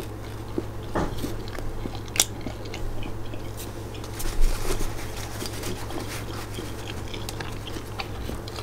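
A person chewing a mouthful of homemade naan-bread pizza close to the microphone, with wet mouth clicks and a few sharper crunches, the strongest about a second in, just after two seconds and around four and a half seconds. A steady low hum runs underneath.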